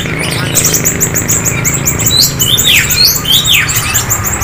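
Caged songbirds chirping together: a rapid, high-pitched twittering, with two loud whistles sweeping downward in pitch around the middle.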